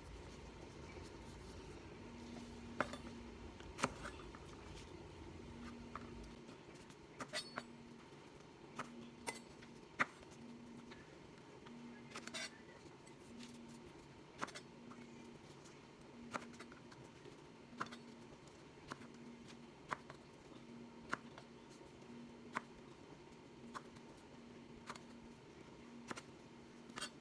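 Light clicks and taps of a knife and spoon against a chopping board, about one a second, as chillies are trimmed and seeded. Underneath is the steady hum of a dishwasher running, with a low rumble that stops about six seconds in.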